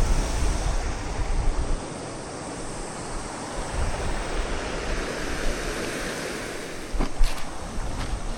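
Steady rush of a mountain stream, with wind buffeting the microphone in the first two seconds and a single knock about seven seconds in.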